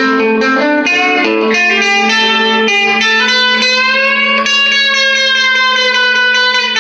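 Two-pickup electric guitar through an overdriven all-tube amp, volume and tone fully up, playing a quick run of notes from a pentatonic scale, then holding one long note with vibrato.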